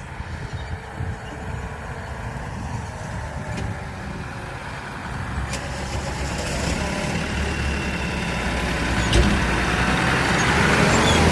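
A heavy diesel engine runs steadily and grows gradually louder, as a machine comes closer or works harder, with a sharp knock near the end.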